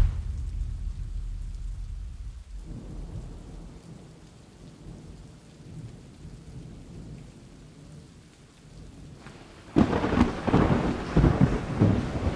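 Thunderstorm: a low rumble of thunder fading away over the first few seconds, light rain, then a sudden loud crack of thunder with rolling rumble about ten seconds in.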